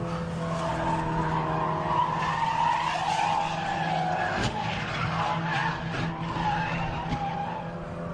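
A car's engine running steadily while its tyres squeal in a long, wavering skid.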